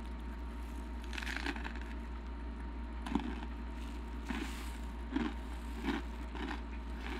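Close-miked chewing of a jalapeño pepper stuffed with cream cheese and rolled Takis tortilla chips: short irregular crunches, the first about a second in. A steady low hum runs underneath.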